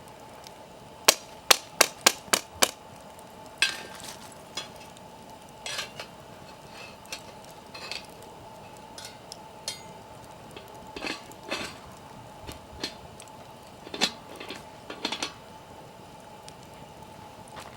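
Metal clinking and knocking: six sharp strikes in quick succession about a second in, then scattered lighter clicks and crackles.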